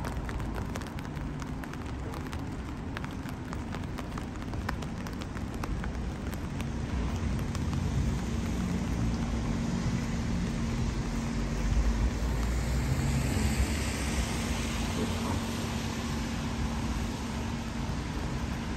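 Steady rain with sharp drips and patters. A vehicle passes on the wet road around the middle, its tyre hiss and rumble swelling and then fading, over a steady low hum.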